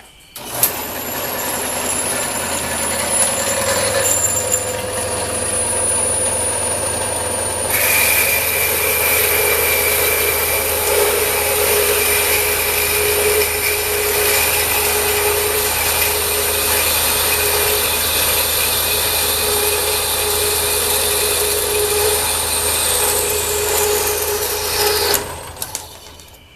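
Metal-cutting horizontal bandsaw switched on and running steadily, a motor hum under a high ringing whine. About eight seconds in the sound turns sharper and brighter. Near the end the whine falls in pitch as the saw is switched off and runs down.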